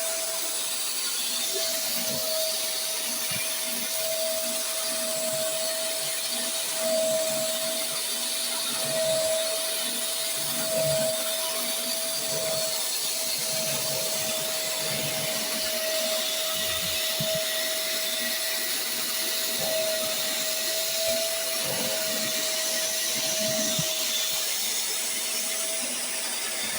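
Vacmaster SCA0801 carpet spot cleaner running steadily, its suction motor giving a constant whine over a hiss of air. There are small swells in level now and then.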